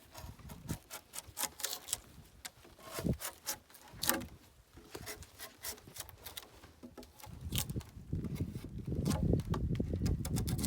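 Footsteps through brush and dry wood, with irregular snaps and crackles, turning into a denser low rustling and scraping for the last few seconds.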